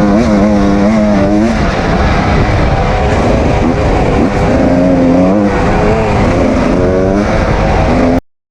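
Kawasaki KX250 dirt bike engine running hard under the rider's throttle, its pitch rising and falling again and again. It cuts off suddenly near the end.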